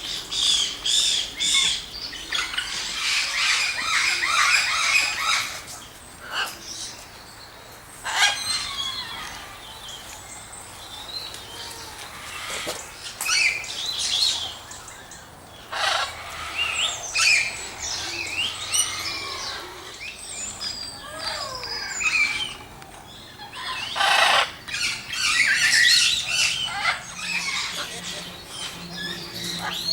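Mixed tropical aviary birds chirping and calling over one another, with louder clusters of calls every few seconds.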